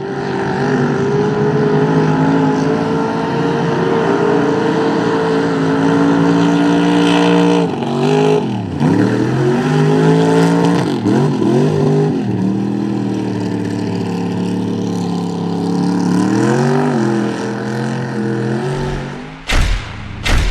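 Rear-engine Dodge mud truck's engine running hard at high revs in a mud bog, the revs dipping and climbing again several times partway through, then falling away near the end. Two heavy thumps come near the end.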